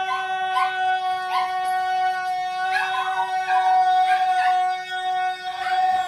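Schnauzers howling and yipping in short repeated calls along with a song that holds one long steady note.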